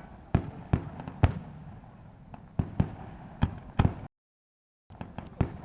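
Aerial fireworks bursting: about a dozen sharp bangs, irregularly spaced, each trailing off in a short rumble. About four seconds in, the sound drops out completely for under a second.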